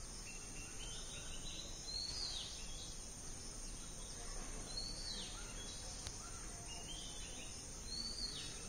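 Outdoor ambience: a bird gives a short call that rises and then falls, followed by a few stepped notes, three times about three seconds apart, over a steady high-pitched drone of insects.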